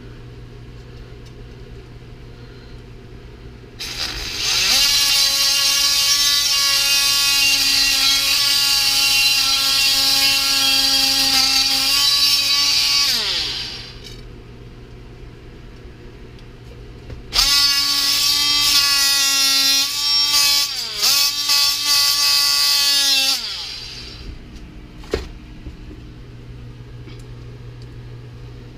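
Small high-speed power cutting tool spinning up and running for about nine seconds, then winding down. After a pause of a few seconds it runs again for about six seconds, its pitch dipping briefly under load in the middle, and winds down. It is cutting away part of a stuck differential bearing.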